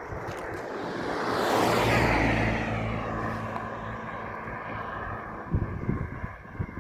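A motor vehicle driving past close by: its engine hum and tyre rush swell to a peak about two seconds in, then drop in pitch and fade. A few soft footsteps follow near the end.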